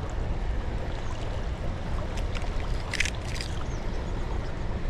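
Steady low rumbling outdoor background noise, with a quick cluster of sharp clicks about three seconds in.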